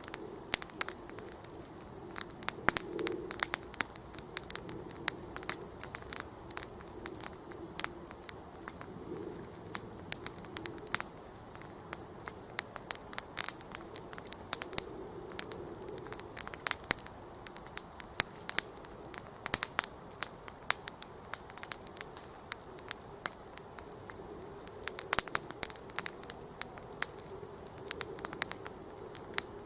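Wood campfire crackling: irregular sharp pops and snaps, several a second, over a steady low rush of burning.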